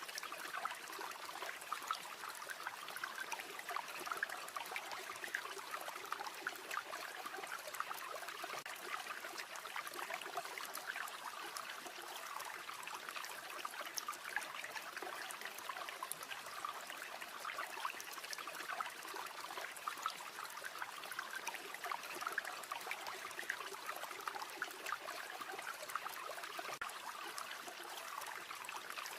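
River water flowing steadily, an even rush with many small sharp ticks scattered through it.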